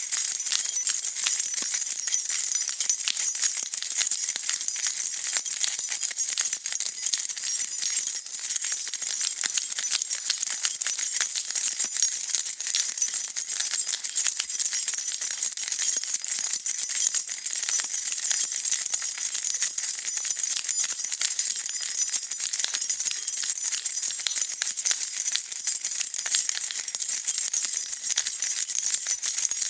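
A bunch of metal keys being shaken, jingling and clinking without a break.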